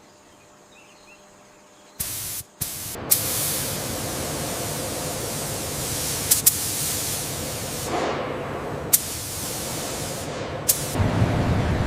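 Faint quiet for about two seconds, then a spray nozzle hisses steadily. A few sharp clicks break through it.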